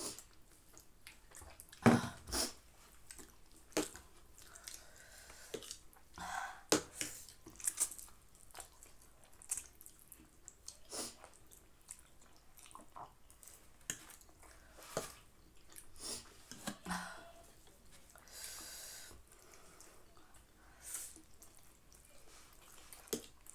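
People eating spicy instant noodles, with wet slurps, chewing and scattered small clicks and smacks. There is one longer breathy hiss about three quarters of the way through.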